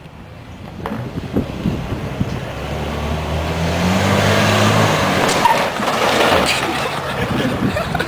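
Truck engine revving hard and growing louder as it comes closer, with a rising rush of tyre and wind noise and scattered rattles and knocks.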